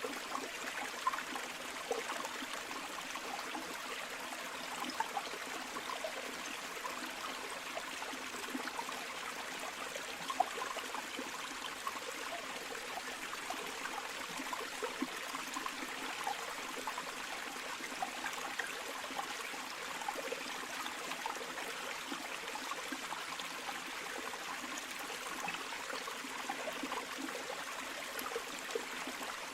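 Flowing river water, a steady rush with many small splashes and gurgles.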